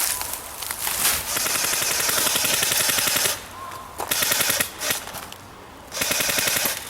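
Airsoft gun firing on full auto: a rapid rattle in three bursts, a long one of about two seconds starting about a second in, a short one about four seconds in, and another near the end.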